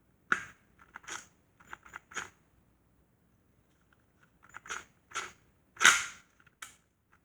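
Sharp, irregular metallic clicks and clacks of a ratchet and hand tools working small bolts on a transmission, in two short clusters; the loudest clack is about six seconds in.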